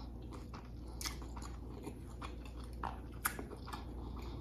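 Close-miked chewing of a mouthful of burrito bowl with lettuce, rice and chicken al pastor: soft crunches and wet mouth clicks coming irregularly, about every half second.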